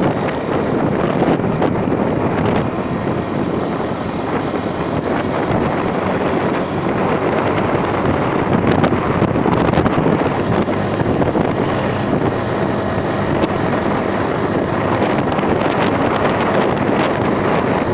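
Wind buffeting the microphone during a vehicle ride, a steady loud rush with a running vehicle underneath.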